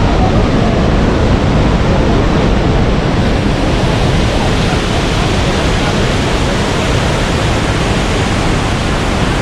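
Iguaçu Falls' waterfalls: a loud, steady rush of falling water, even and unbroken.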